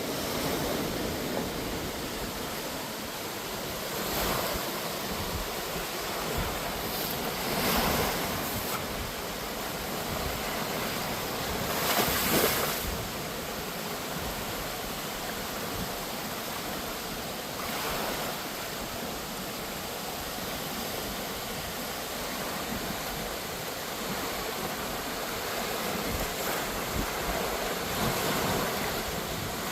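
Steady rushing wind noise on the microphone. It swells several times, loudest about twelve seconds in.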